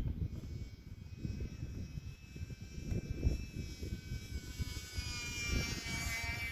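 Wind buffeting the microphone, with the thin high whine of a UMX Turbo Timber RC plane's electric motor and propeller in flight, which gets louder about five seconds in.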